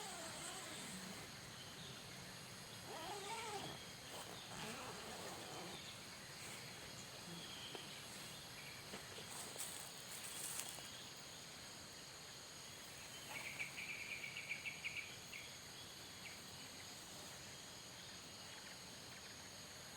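A cat meowing faintly: a few drawn-out calls that rise and fall in pitch in the first several seconds. About halfway through comes a short, rapid high-pitched chattering trill.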